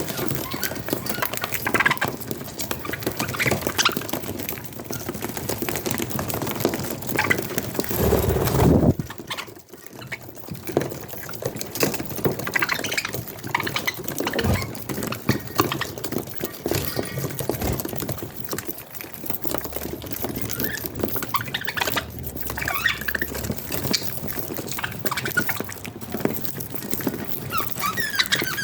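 Young budgerigars cheeping busily while eating soft food, with small wet food sounds.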